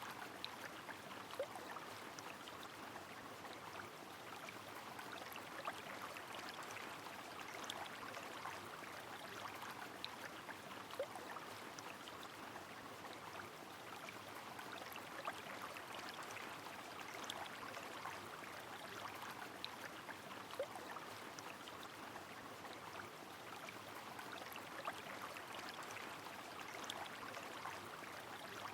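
Steady rain falling on a flowing river, an even wash of water noise with a single sharper drop or drip standing out every few seconds.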